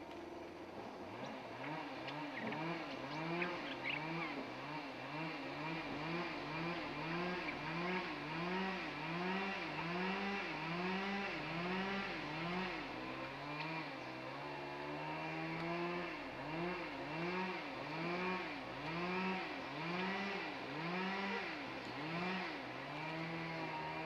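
Birds calling in a steady rhythmic exchange: a low, arching call repeated about one and a half times a second, with a second, lower series of short rising notes in between.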